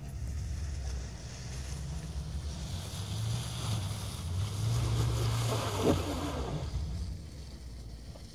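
Engine of an off-road competition 4x4 running on a muddy stage, with a hiss of wind noise on the microphone. Both grow louder through the middle and fade near the end.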